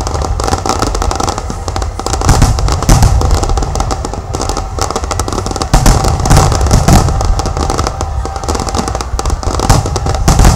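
Aerial fireworks bursting in quick, irregular succession: a dense run of bangs and crackles over a continuous low rumble.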